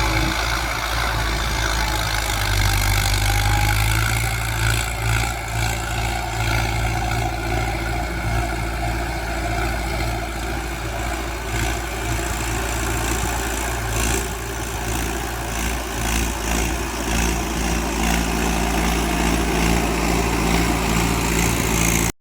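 Mahindra Arjun 605 DI 4WD tractor's diesel engine running steadily, with a few sharp clacks over it. Cuts off abruptly at the end.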